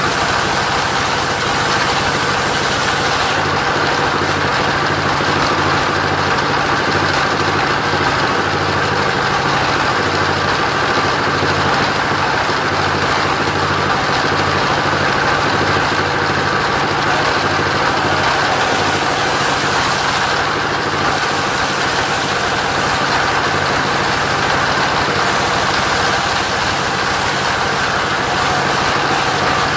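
Engine of a mobile sawmill running steadily and unchanging throughout.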